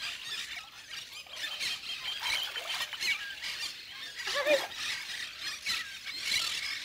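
Birds chirping and squeaking: a dense, continuous chatter of many short, high calls.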